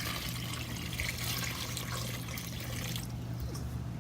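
Water being poured over a pile of water beads, a steady splashing hiss that stops about three seconds in.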